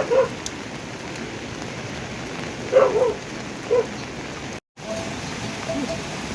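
Steady heavy rain falling on surfaces, with a few short calls standing out above it, loudest about three seconds in. There is a brief dropout about three-quarters through, then a faint, evenly repeating chirp under the rain.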